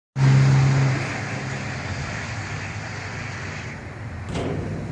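Twin-turbo Ford Mustang's engine running loud with a strong steady hum for about the first second, then settling to a steadier, quieter drone. About four seconds in there is a brief sharp whoosh that falls in pitch.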